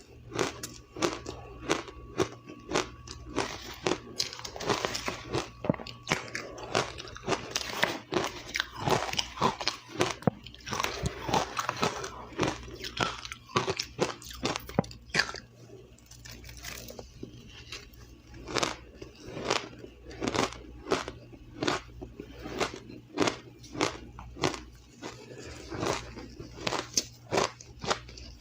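A person biting and chewing ice, crunching it between the teeth: dense, irregular crunching in the first half, settling into steady chewing crunches about two a second in the second half.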